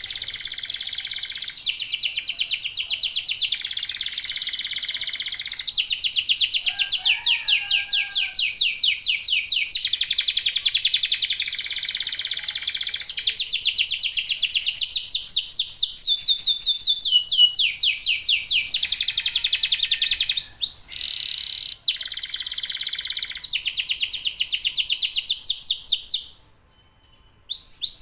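Domestic canaries singing a long, continuous song of rapid trills and fast repeated high notes, more than one bird overlapping. The song stops suddenly about two seconds before the end, leaving a short quiet with a brief chirp.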